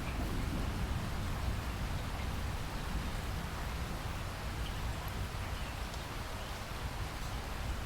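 Steady rain falling, with the low rumble of a thunderclap dying away in the first second.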